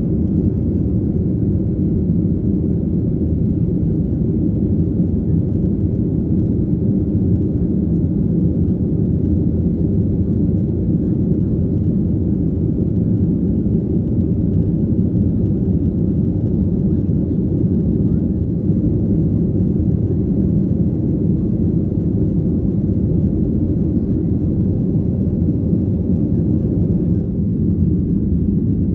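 Cabin noise inside a Boeing 737-800 under power: a steady, deep rumble of its CFM56 jet engines and the airflow, with no change in pitch or level.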